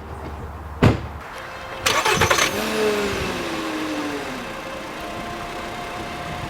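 A knock about a second in, then a car engine cranks and catches about two seconds in, its pitch falling as it settles into a steady idle.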